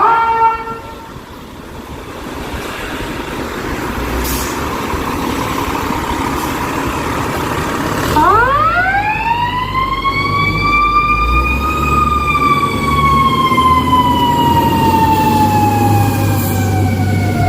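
Chicago Fire Department fire apparatus leaving on a call: diesel engine running and building up, then about eight seconds in its siren winds up steeply and then slowly winds down in a long falling wail, like a mechanical siren coasting down. A brief tone sounds at the very start.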